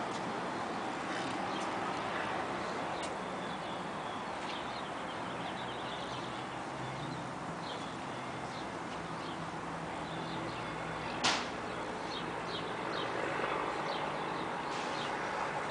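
Steady background noise with a faint low hum, scattered short high bird chirps, and one sharp click about eleven seconds in.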